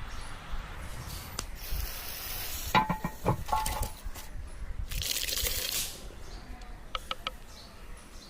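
Cooking sounds: two bursts of sizzling hiss, with ringing metal clinks of utensils on a pot between them and a few more sharp clicks near the end.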